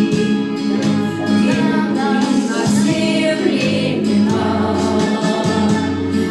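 A song performed with singing voices over instrumental accompaniment, with sustained melody notes over a steady bass line.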